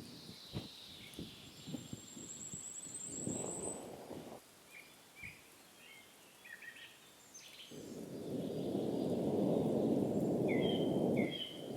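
Small birds chirping in the forest, short high calls coming and going. A few light taps early on and a short burst of low rushing noise about three seconds in. From about eight seconds in, a longer and louder rushing noise lasts for several seconds; its source is not clear.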